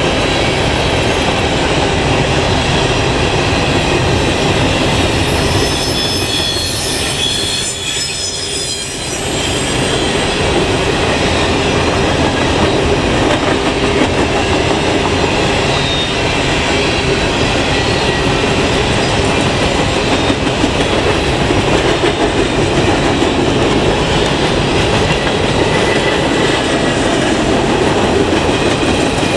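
Freight train cars rolling past at close range: a steady loud rumble and clatter of steel wheels on the rails, with faint high wheel squeals now and then and a brief lull about eight seconds in.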